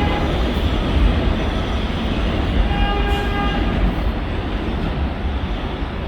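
An R188 subway train running on the elevated 7 line, with a steady rumble of wheels on rail. A short pitched whine comes in about three seconds in and lasts under a second.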